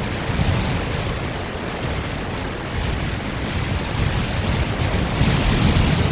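Strong wind blowing and buffeting a nest camera's microphone: a steady rush with a low rumble, and a stronger gust about five seconds in.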